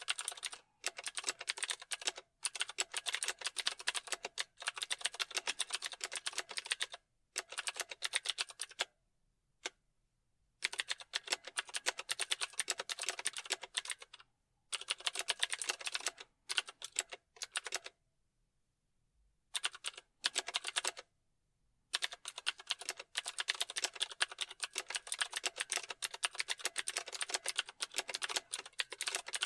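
Typing on a computer keyboard: fast runs of key clicks in bursts of several seconds, with short pauses, the longest a second or two about nine and eighteen seconds in.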